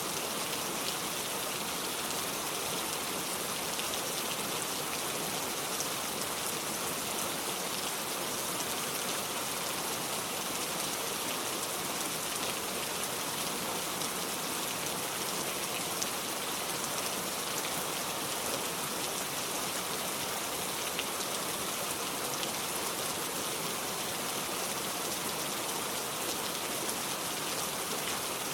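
Heavy rain falling steadily: a dense, even hiss with scattered ticks of individual drops, and no thunder.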